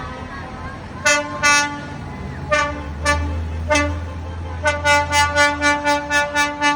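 Tractor horn tooting in short, single-pitched blasts: a few spaced toots, then a quick run of about eight toots near the end. A low engine rumble runs underneath in the middle.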